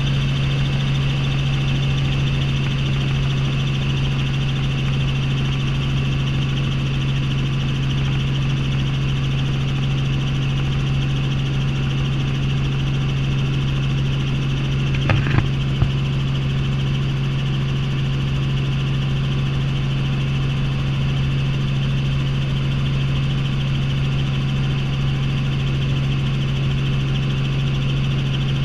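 Helicopter running steadily, heard from inside the cabin: a constant low rotor drone with a steady high turbine whine above it. A few brief clicks come about halfway through.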